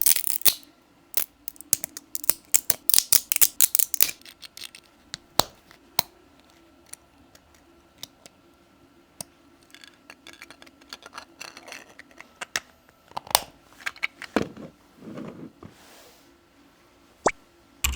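Quick run of small hard clicks and taps, consistent with 3D-printed plastic parts being handled and fitted together, thinning out after about four seconds into scattered clicks and brief rustling.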